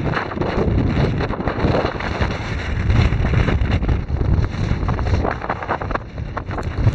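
Heavy wind buffeting the microphone, a loud low rumble that rises and falls in gusts.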